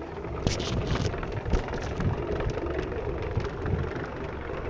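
Steady rumble of a DIY Onewheel rolling along a paved path, mixed with wind on the microphone, with a few small knocks from the first second and a half.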